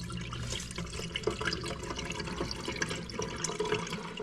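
Dishwasher draining: dirty water full of food debris spattering and running out of the clogged drain line. A low hum from the running drain pump drops away within the first half second.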